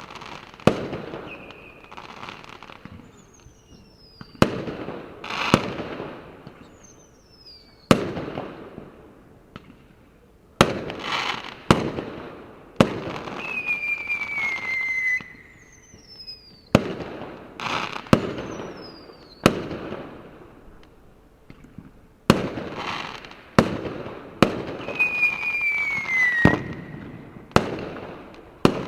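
Fireworks: sharp bangs every second or two, with crackling between them and several whistles that fall in pitch.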